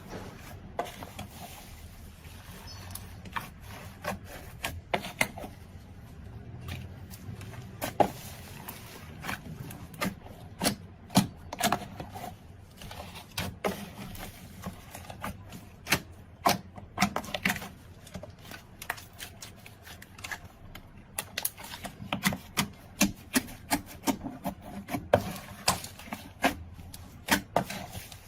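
Slime being squeezed and worked by hand, crackling with many irregular sharp pops and clicks, several a second at times.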